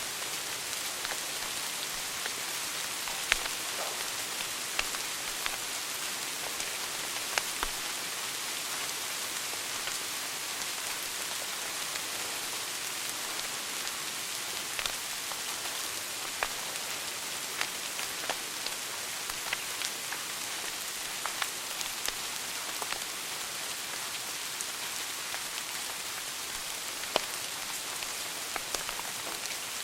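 Wood fire burning in a fireplace: a steady hiss with irregular sharp crackles and pops, a few louder pops standing out.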